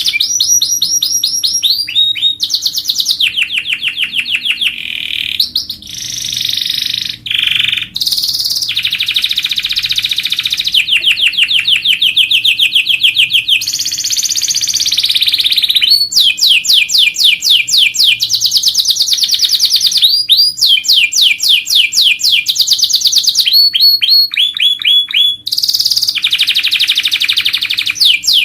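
Domestic canary singing a long, loud song of fast trills and rolls, each phrase a rapid run of repeated notes, switching to a new trill every second or two with a few brief breaks.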